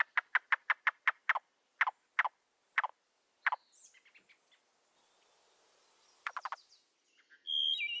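Bird calling: a fast run of short, falling whistled notes, about eight a second, that slows into a few widely spaced notes by about three and a half seconds in. Faint scattered notes follow, then a short burst of notes near the end.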